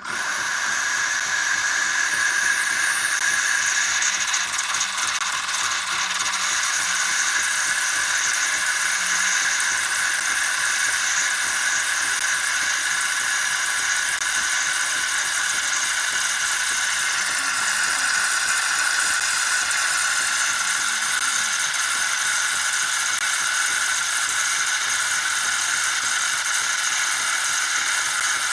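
Philips 3200 LatteGo automatic espresso machine running, a loud, steady hiss with a high whine that starts abruptly.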